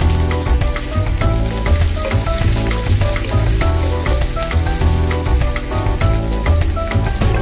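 Red onion sizzling and frying in hot oil in a non-stick frying pan, under background music with short notes and a repeating bass line.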